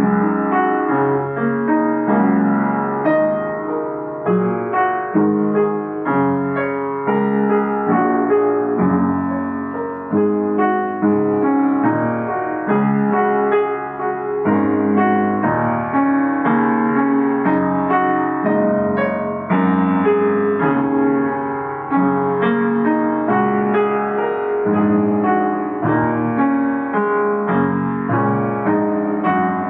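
Improvised solo piano, a continuous stream of chords and notes with frequent new note attacks.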